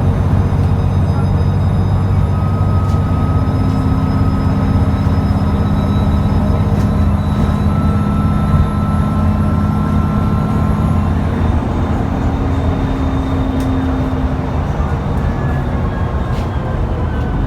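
Cummins ISBe 6.7-litre diesel engine of an ADL Enviro400 double-decker bus under way, with a high turbo whine over the engine drone. The whine's pitch creeps slowly upward, then falls away about eleven seconds in, and a fresh falling whine comes near the end.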